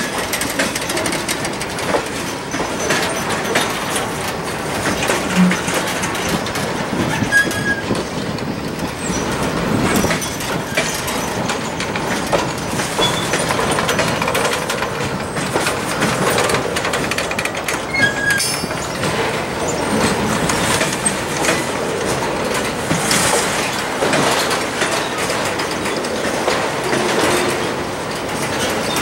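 Freight train of boxcars rolling by: a steady rumble of steel wheels on rail with rapid clicks over the rail joints, and a few brief high squeaks from the wheels.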